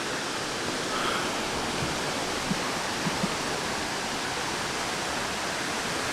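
Waterfall rushing steadily: an even wash of falling-water noise with no breaks.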